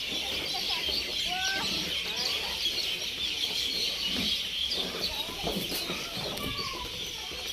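Hens clucking over a dense, steady chatter of small birds chirping.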